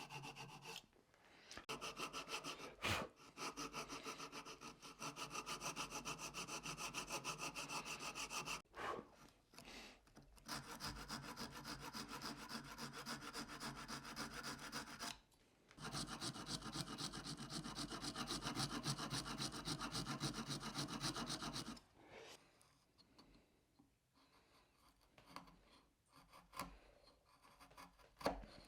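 Flush cut saw cutting into a canary wood hand-plane body, making room for the wedge: three runs of quick back-and-forth strokes with short pauses between them, then quieter scattered scraping and taps near the end.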